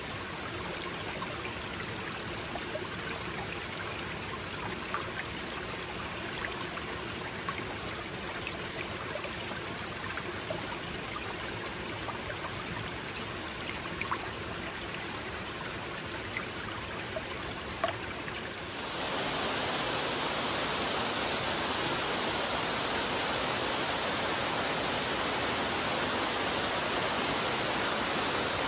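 Creek water flowing over rocks, a steady babble with small splashes. About two-thirds of the way through it changes abruptly to a louder, even rush of a waterfall.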